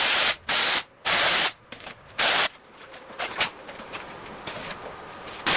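Short bursts of compressed-air hiss from an air tool: four quick bursts in the first two and a half seconds, then a quieter stretch, and one more burst near the end.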